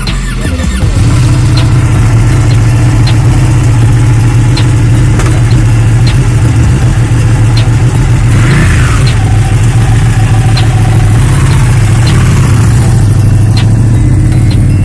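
A superbike's engine starting about a second in, then idling steadily.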